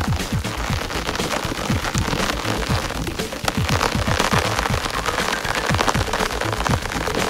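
Heavy rain falling: a steady hiss thick with quick drop impacts.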